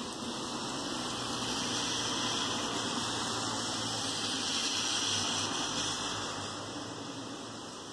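Steady rain, with a car driving past on the wet road: its tyre hiss swells over a few seconds and fades near the end.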